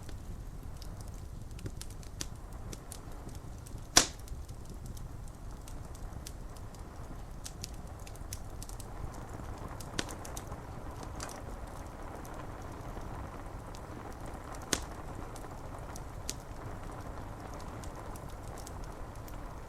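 Wood fire crackling, with a few sharp pops, the loudest about four seconds in, over a steady soft rush of rain.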